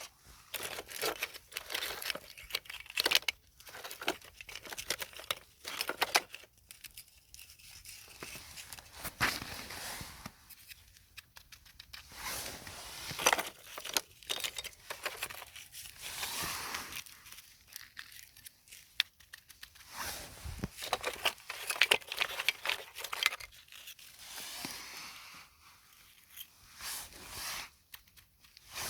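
Close-up ASMR trigger sounds: dense crackling clicks and rustles that come in bursts of a few seconds, with short quieter pauses between them.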